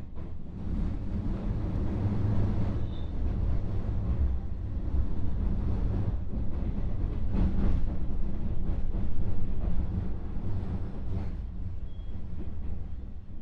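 Interior running sound of a JR West 221 series electric train, heard inside motor car KuMoHa 221-67: a steady low rumble of wheels on rail with intermittent clacks. It swells about a second in, is loudest past the middle, and eases off near the end.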